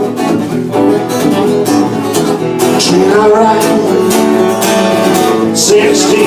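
Music: strummed guitars playing with a steady beat.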